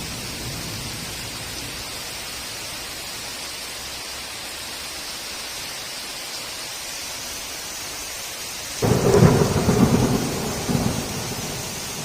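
Heavy rain hissing steadily, then a sudden loud clap of thunder about nine seconds in that rumbles on for a couple of seconds, swelling once more before it fades.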